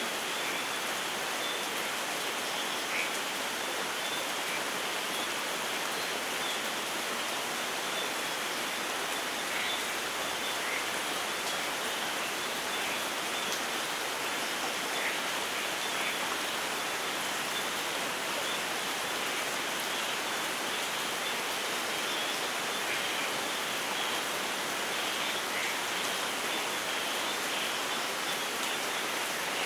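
Steady rainfall, an even unbroken hiss of rain falling in a rainforest.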